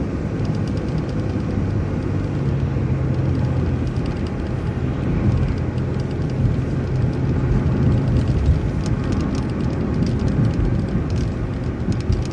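City transit bus driving along, its engine running with a steady low drone over road noise, and a few light clicks and rattles in the second half.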